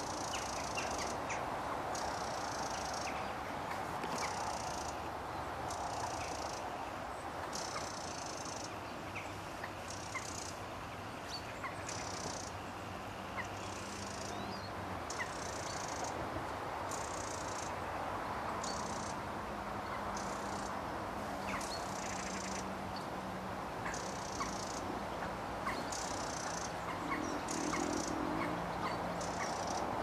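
Wild songbird singing in high, thin phrases repeated about once a second, with scattered short chirps, over a steady low hum.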